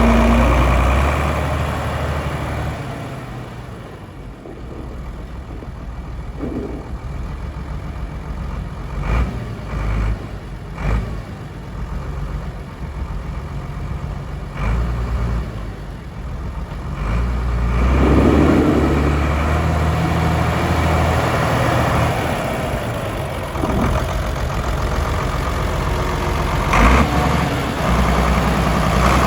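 1993 Lamborghini 1506DT tractor's diesel engine running, getting louder about halfway through. A few short knocks and clunks come over it.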